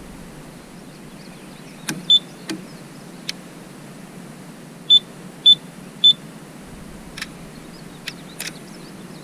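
Short high-pitched electronic beeps from a LiftMaster 500 series gate opener's control board: a single beep about two seconds in, then three evenly spaced beeps about half a second apart. A few sharp clicks are scattered among them.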